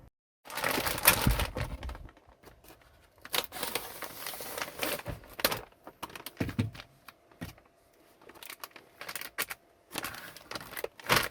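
Plastic packaging crinkling and rustling, with scattered clicks and taps, in irregular bursts as something is unwrapped and handled; the loudest burst comes about a second in.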